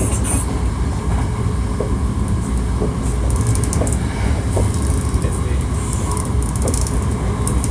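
Hankyu 1300-series electric train running, heard inside the car: a steady low rumble of wheels and motors, with a few faint scattered clicks.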